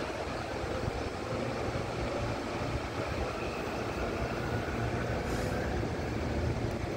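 Electric commuter train running over the station's tracks and switches: a steady rumble with a low hum.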